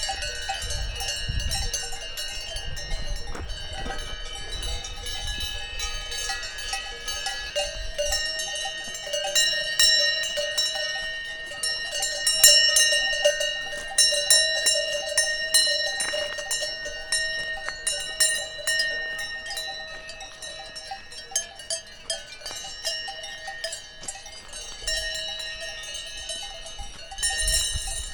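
Many cowbells on grazing cows ringing and clanking continuously, several bell tones overlapping at once. A low rumble sits under them for the first several seconds.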